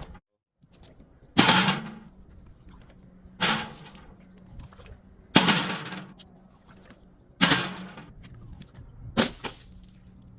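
Five sharp smashing crashes, evenly spaced about two seconds apart, each fading out over about half a second, over a steady low hum.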